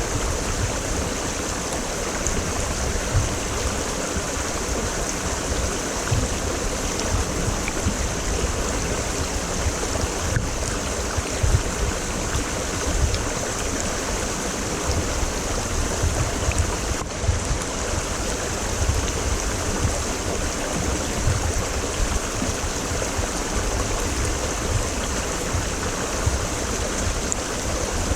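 A creek's water flowing, a steady rushing sound with no break.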